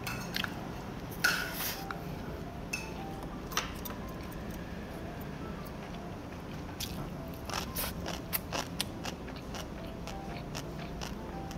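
Close-miked eating: crunching and chewing of crispy scorched fried rice (nurungji) from the bottom of a tteokbokki pan, with scattered short sharp clicks and crunches that come thickest near the end.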